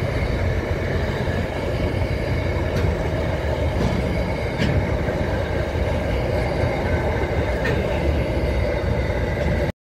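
Pacific National intermodal freight train's container wagons rolling past: a steady, loud rumble of steel wheels on rail, with a few faint clicks. The sound cuts off suddenly near the end.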